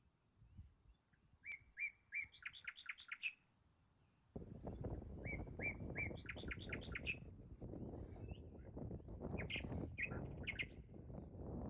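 A songbird singing: a quick phrase of about a dozen high notes, repeated the same way a few seconds later, then a few scattered notes near the end. About four seconds in, a steady low rushing noise starts abruptly underneath and keeps going.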